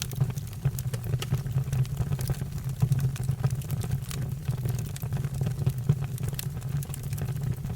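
Fire crackling: frequent sharp pops and snaps over a steady low rumble.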